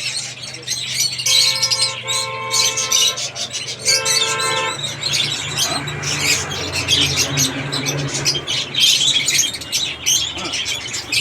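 Many caged birds chirping and squawking in a dense, continuous chatter. A steady honking tone, like a horn, cuts in twice in the first five seconds, the first for about two seconds and the second briefly.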